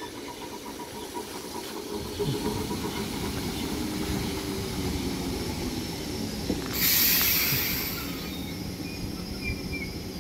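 Class 313 electric multiple unit standing at the platform with a steady low rumble. About two-thirds of the way through, a loud hiss of released air lasts about a second and then fades.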